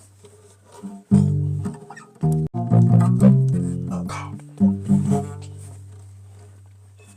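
Bass guitar played solo: a low note fades out, then a quick phrase of several plucked notes, and a final long low note is left ringing and fading away.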